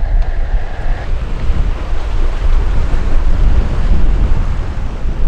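Wind buffeting the microphone: a loud, gusty low rumble with a hiss over it.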